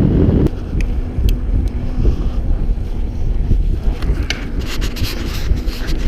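Mountain bike rolling over a rough trail: tyres rumbling on dirt and stones, with scattered clicks and rattles from the bike. Wind buffets the chin-mounted GoPro for the first half second, then eases off.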